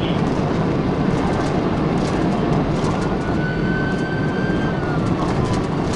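Police cruiser in a high-speed pursuit, heard from inside: a steady roar of engine, tyre and wind noise. A faint thin whine comes in around the middle and slides down in pitch near the end.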